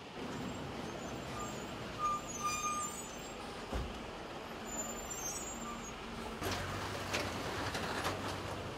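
Motor vehicle noise: a steady noisy rumble with a brief high squeal about two seconds in, and a low engine hum joining in over the last couple of seconds.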